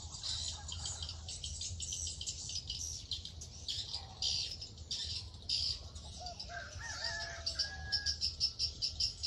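Many small birds chirping rapidly and continuously, with a rooster crowing once about two-thirds of the way in.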